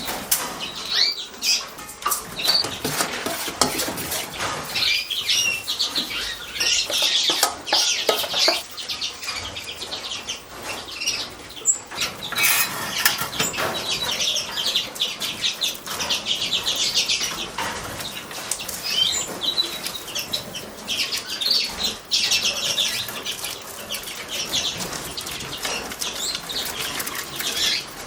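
Small cage or aviary birds calling constantly in short, rasping chirps, with wing flutters and light clicks and clatter mixed in.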